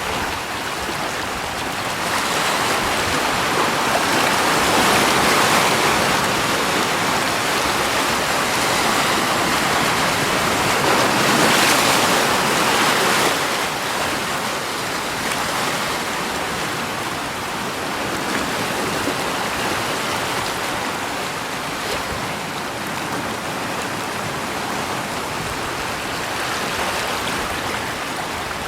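Steady rushing of running water, swelling louder twice: a few seconds in and again near the middle.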